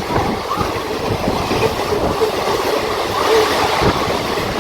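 Train running along the rails: a steady rumble of wheels with irregular clatter.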